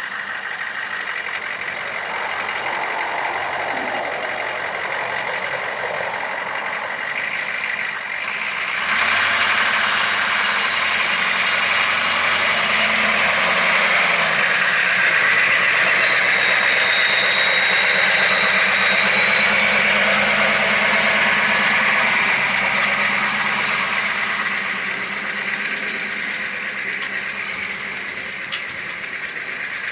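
The engine of a big lifted Jeep-bodied monster truck running as it is driven across a field. It grows louder about nine seconds in, together with a high whine that slides down in pitch, then eases off again near the end.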